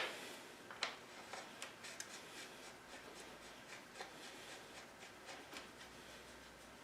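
Faint, irregular clicks and light rubbing of small parts being handled and fitted by hand while the motorcycle's rear wheel is reassembled, with one sharper click about a second in.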